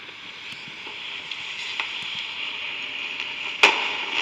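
Fireworks picked up by a live railcam's microphone: a steady hiss with scattered small pops, then one loud, sharp bang a little over three and a half seconds in from a firework going off right next to the camera.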